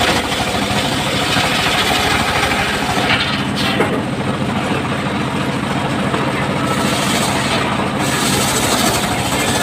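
Engine-driven circular sawmill running steadily with a pulsing engine note. A higher hiss drops away about three seconds in and comes back near the eighth second.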